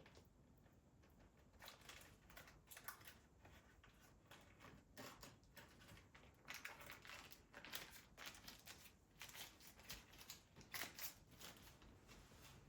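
Faint, irregular rustling and crinkling with small clicks, from objects being handled.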